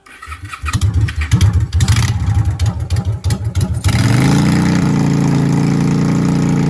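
Pressure washer's small petrol engine firing unevenly as it catches. About four seconds in it revs up and settles into a steady run.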